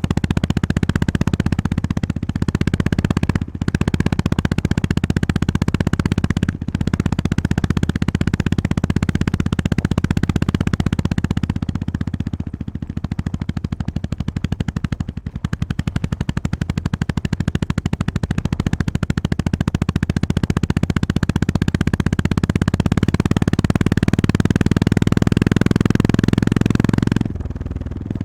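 Honda GB350S's air-cooled single-cylinder engine running under way on a ride, its sound strongest low down. It dips briefly a few times, runs softer for a few seconds in the middle, grows louder toward the end, then drops off sharply just before the end.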